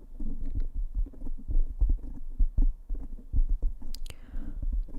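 Fingers tapping rapidly on the microphone: a quick, irregular patter of muffled low thuds, with a brief hiss about four seconds in.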